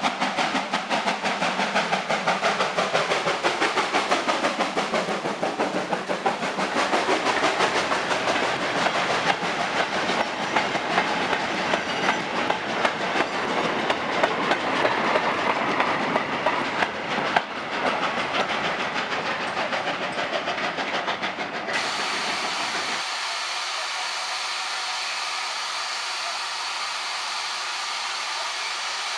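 A train running on heritage-railway track with a fast, even clickety-clack rattle. About 22 seconds in it cuts off abruptly and gives way to a steady hiss.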